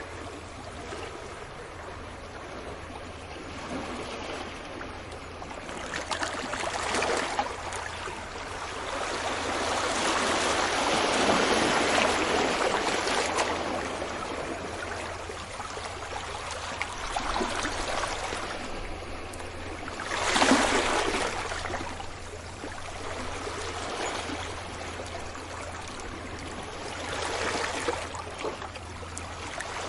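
Sea waves washing onto a beach, the surf noise swelling and ebbing: a long broad swell through the middle and a shorter, sharper wave break about two-thirds of the way through.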